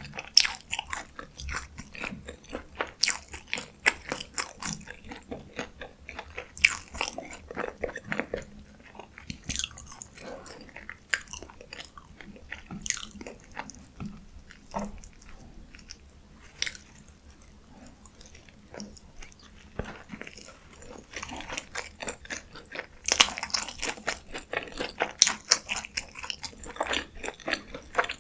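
Close-miked eating: crisp bites and crunching chews of fried fast food, with no talking. The crunching thins out to softer chewing midway, then comes back dense and loud for the last several seconds.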